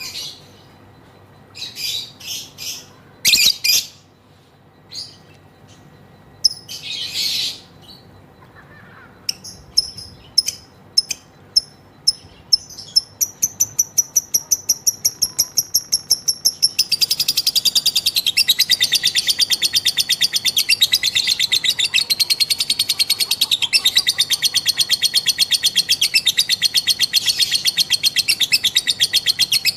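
Female lovebird calling: a few separate high chirps at first, then from about nine seconds in a run of sharp chirps that grows faster and faster. From about seventeen seconds on it becomes one long, unbroken, rapid chattering trill, the 'ngekek' call.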